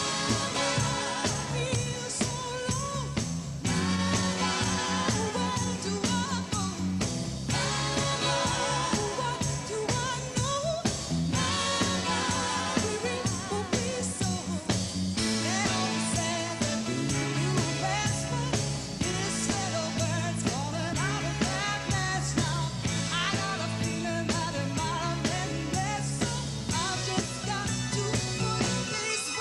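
Live pop band performance: a woman sings over a repeating bass line, keyboards and a steady drum beat.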